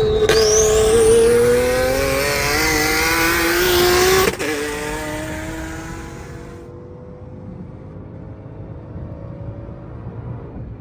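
Car engine at full throttle, its pitch climbing steadily for about four seconds. The pitch drops suddenly at a gear change, and then the engine sound falls away and fades.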